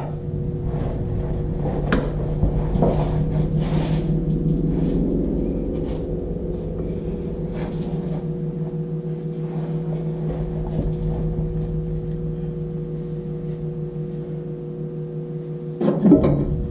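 A steady mechanical hum made of a few level tones, with a handful of faint knocks and clinks scattered through it.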